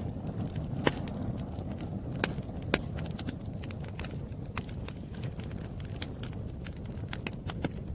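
Campfire burning with irregular sharp crackles and pops over a low steady rumble of the flames; the loudest pops come about a second in and twice between two and three seconds.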